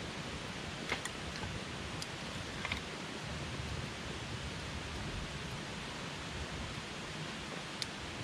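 Wood campfire burning with a steady hiss and rumble of flame, broken by a few sharp crackles and pops of the wood: about a second in, near three seconds, and near the end.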